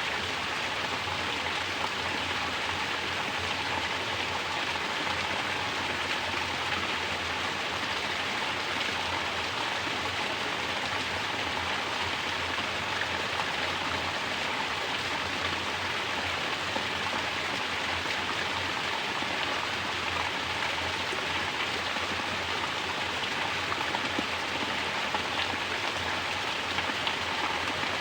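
Steady spatter of mountain spring water falling freely from a natural shower and splashing down, a constant, even rush.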